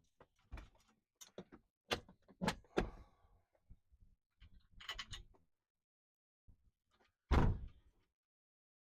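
Scattered clicks and knocks of hand tools and parts during under-car work, with a short hiss about five seconds in and a heavy thump a little past seven seconds, the loudest sound.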